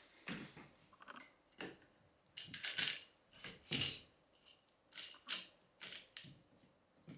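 Parts of a bike repair stand being handled and fitted together: an irregular run of clicks, clinks and knocks, some with a bright metallic ring.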